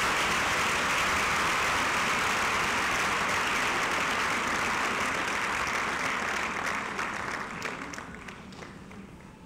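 Audience applauding, dense and steady at first, then dying away into a few scattered claps near the end.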